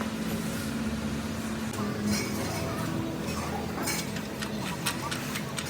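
Light metallic clinks and taps, a few in the second half, over a steady low machine hum in a workshop.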